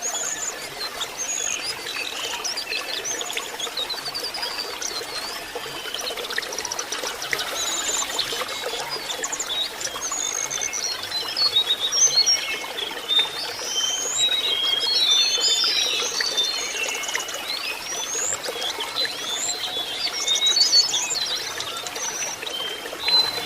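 Lesser shortwing (jongkangan) song: high whistled glides and quick chattering trills, denser in the second half, over a steady sound of running water.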